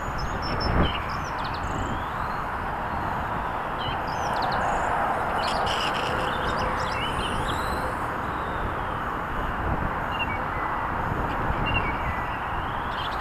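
Venom GPV-1 1/8-scale RC motorbike running: a steady rush of tyre and air noise, with a thin high brushless-motor whine that rises and falls with the throttle.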